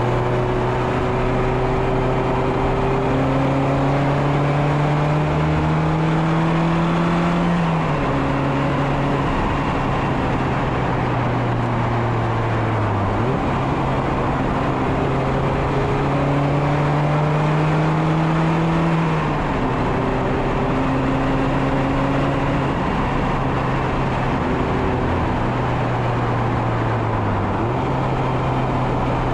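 Mazda MX-5 Miata four-cylinder engine pulling uphill under load, revs climbing slowly through each gear and dropping at two upshifts. Twice the revs sag and then jump straight back up, a rev-matched downshift, with steady wind and road noise underneath.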